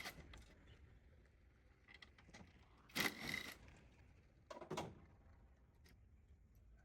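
A few short scraping knocks of things being handled, the loudest about three seconds in and a smaller one near five seconds, over a faint low hum.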